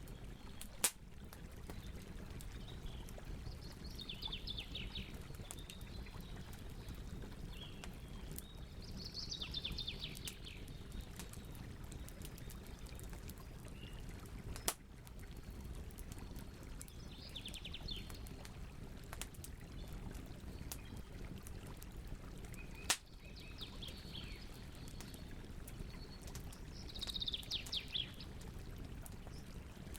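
Campfire burning with a steady crackle and three sharp pops, while songbirds sing short trilled phrases every few seconds.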